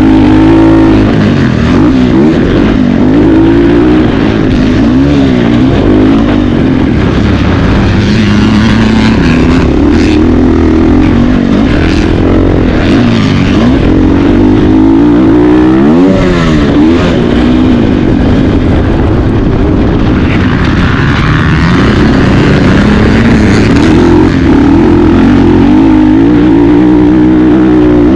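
Motocross bike engines revving hard as they race, the pitch rising and falling every second or two as the riders work the throttle and gears. At times two engine notes cross, as bikes pass.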